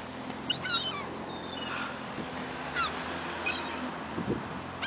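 Seagulls calling: short, high squeals that fall in pitch, a quick cluster about a second in and a few single calls near three seconds.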